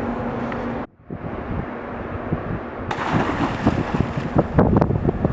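Wind buffeting the microphone over water. The sound cuts off abruptly about a second in, then resumes with rapid, irregular crackling and splashing from about three seconds in.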